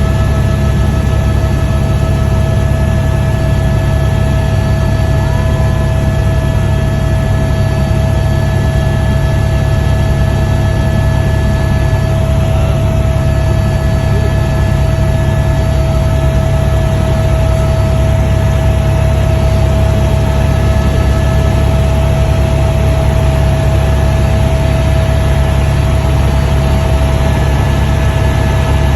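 Helicopter running steadily: a loud, unchanging low drone with a constant thin whine over it.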